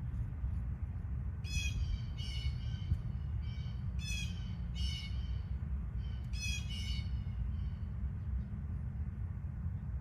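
Short, harsh bird calls in three bursts of two or three calls each, over a steady low rumble.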